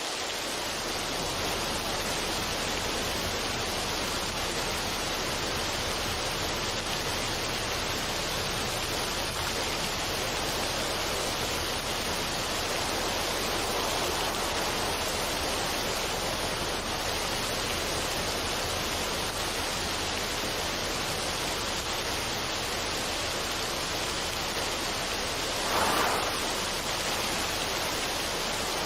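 Steady, even rushing noise, with no musical notes or rhythm, and a brief slightly louder swell near the end.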